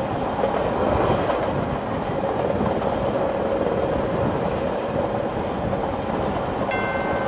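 Train sound effect: the steady rumble of a train running on the rails. A chime of a few high notes comes in near the end.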